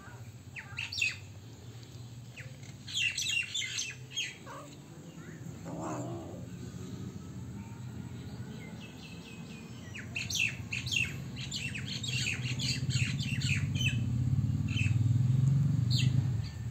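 Small birds chirping in clusters of short, quick calls, over a low rumble that grows louder in the second half. A single lower call comes about six seconds in.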